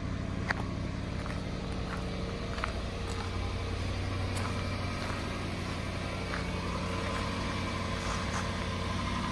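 2006 Toyota 4Runner's 4.7-litre V8 idling steadily after a cold start.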